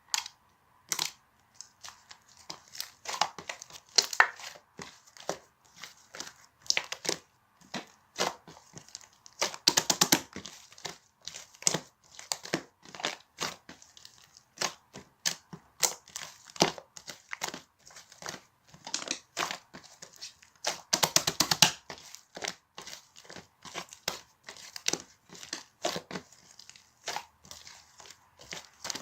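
Hands squishing, stretching and pressing white slime, giving a steady run of short sticky pops and crackles, with denser bursts about ten seconds in and again around twenty-one seconds.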